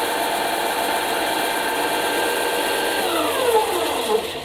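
Ryobi RBDS4601G belt and disc sander running with no load, a steady, rowdy whine and hum. About three seconds in it is switched off and the pitch falls as the motor, belt and disc coast down.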